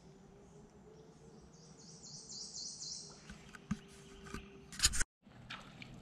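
A bird calling a quick run of about ten high chirps about two seconds in. A few clicks follow, then a short, loud crackle near the end that cuts off suddenly.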